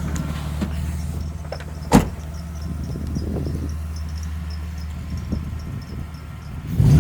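BMW E30's newly swapped engine idling steadily, with one sharp knock about two seconds in. The engine note rises and gets louder right at the end.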